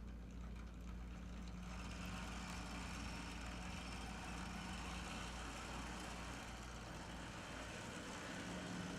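HO-scale brass model Norfolk & Western C30-7 locomotive running on the track: a steady electric motor hum with a whir of gears and wheels, which grows louder about a second and a half in.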